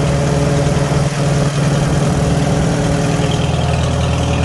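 1949 Farmall H's four-cylinder gasoline engine running steadily after a change of spark plugs, which cured its rough running: it sounds right now, with no rat-a-tat-tat from the top end.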